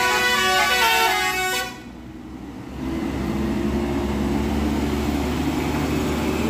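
Multi-tone musical bus horn (telolet) playing a tune of stepped notes, cutting off just under two seconds in. After a short lull, a heavy vehicle engine runs steadily.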